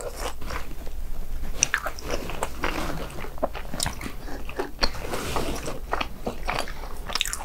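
Biting and chewing of a Bburing hot dog: irregular crisp crunches of the coated crust mixed with wet chewing of its chewy, rice-cake-like dough.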